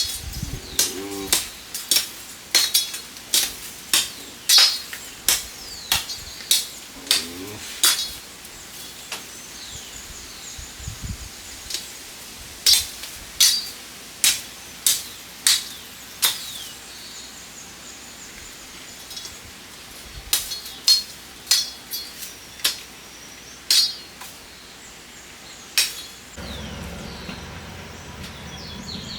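Repeated sharp strikes, each with a short metallic ring, coming in runs of about one to two a second with a couple of pauses between them.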